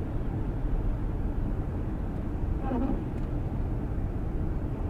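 Steady low rumble of a car driving, road and engine noise, with a brief faint voice about two and a half seconds in.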